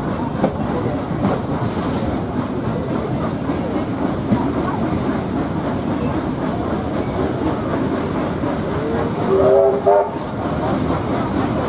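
Train carriage running behind steam Garratt 6029, with steady running noise and wheels clicking over rail joints. A brief whistle sounds near the end.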